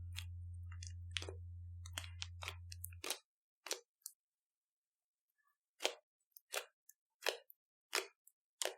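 Slime being squished and pressed, giving short crunchy, crackling pops; after about three seconds they come as separate crackles roughly every two-thirds of a second. Under the first few seconds a held low note of background music fades out.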